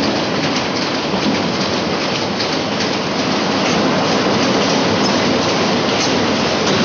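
Passenger train running at speed, heard through an open carriage window: a steady rush of wheels on rail with faint clicks. It grows a little louder about halfway through as the carriage goes onto a steel truss bridge.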